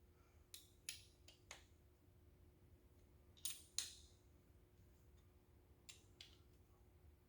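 Near silence: a handful of faint, short clicks, a close pair about halfway through, over a steady low hum.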